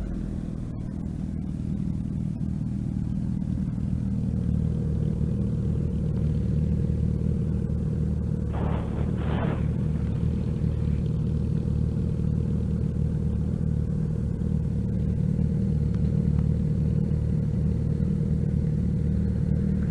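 Motorcycle engine running at a steady pace on the move, its low hum even throughout, with two short noisy strokes about eight and nine seconds in.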